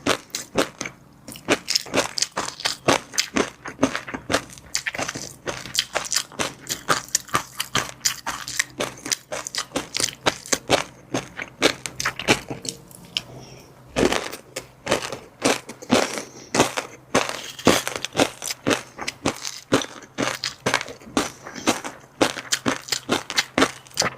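Close-miked eating: fish roe and crunchy chili-garlic seafood being chewed, with a rapid run of crisp crackling crunches and pops. There is a short lull about halfway through, then a single heavier knock.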